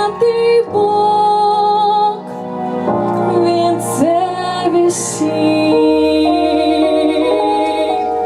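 A woman sings a church song solo over instrumental accompaniment. From about six seconds in, the music settles into long held notes.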